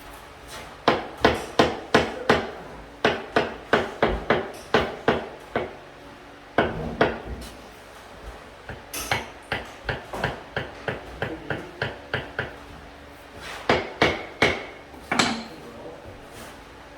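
A hammer striking repeatedly, about three to four blows a second, in several bursts with short pauses between them.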